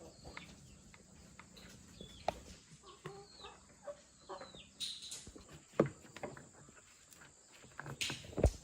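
Birds, likely chicks or chickens, chirping in short falling calls again and again, with a few sharp knocks, the loudest near the end.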